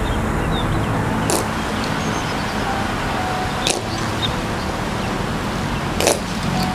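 Ceremonial boot steps: three sharp stamps or heel-clicks about two and a half seconds apart, over a steady wind-like hiss with faint bird chirps.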